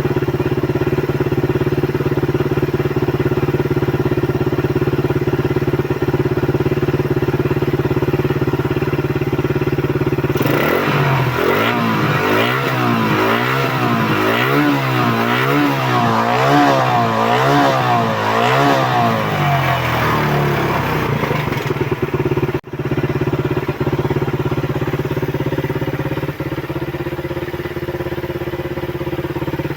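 Suzuki Raider 150 motorcycle engine idling steadily, then revved up and down over and over, about once a second, for around ten seconds, then settling back to idle.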